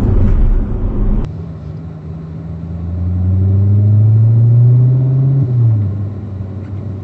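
Chevrolet Corvette ZR1's supercharged V8 on the road: a low rumble, then the engine pulls with a steadily rising note for about three seconds before it drops off sharply about five and a half seconds in.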